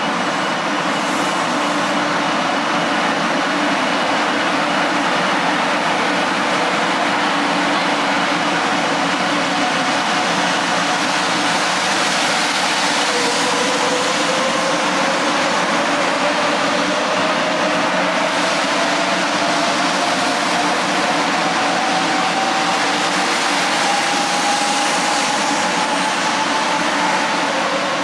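500 series Shinkansen bullet train pulling away and passing close by as it gathers speed: steady running noise, with motor whines that rise slowly in pitch over the second half as it accelerates.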